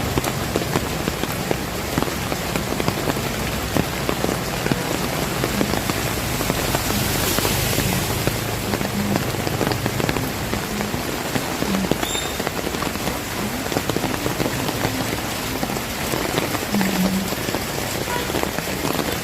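Heavy rain falling steadily: a dense patter of drops striking surfaces, with occasional heavier drips.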